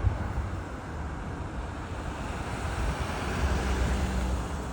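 Jet aircraft engine noise at an airport: a steady rush with a low rumble that swells about three seconds in. Wind buffets the microphone.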